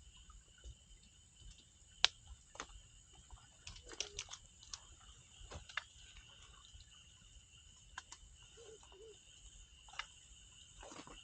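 Wood campfire crackling, with irregular sharp snaps and pops, the loudest about two seconds in, over a steady high chirring of insects.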